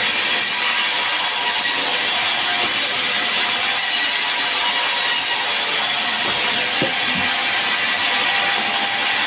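Sawmill saw cutting sengon timber, a steady noise heavy in the high end that holds at one level.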